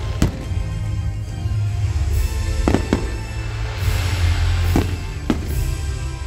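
A fireworks display: aerial shells burst in about five sharp bangs, a quick pair about two and a half seconds in and two more near the end, with a hissing crackle between them. Music plays underneath throughout.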